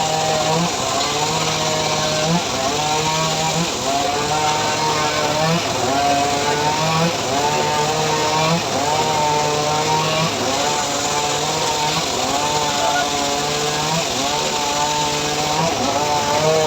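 Chainsaw engine running under load as it cuts sengon wood, its pitch rising and falling in a repeating pattern about every second and a half.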